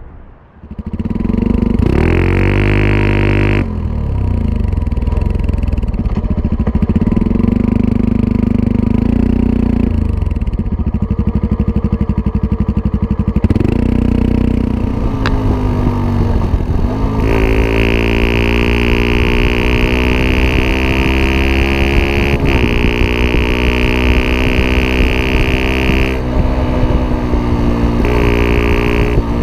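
Yamaha WR 125 R's single-cylinder four-stroke engine running through a Takkoni aftermarket exhaust, revved up and down repeatedly. Its pitch climbs and falls several times, with a long stretch held at high revs in the second half.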